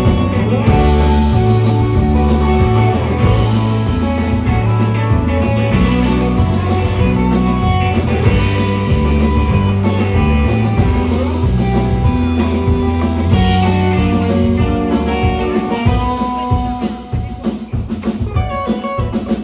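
A band playing an instrumental passage without vocals: guitar over bass and a drum kit in a bluesy rock groove.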